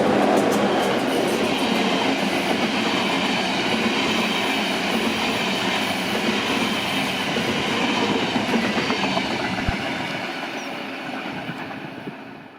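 A train running by on the track, its sound steady for most of the time and then fading over the last few seconds.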